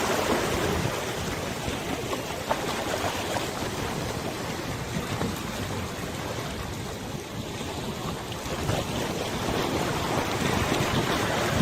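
River water lapping and rushing steadily, with a few small splashes.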